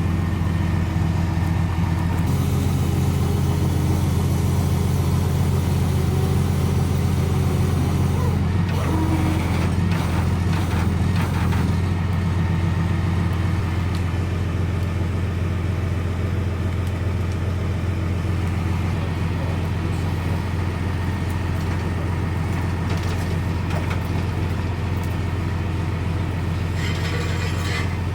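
An engine running steadily with a constant low hum. A few metallic knocks come through in the middle.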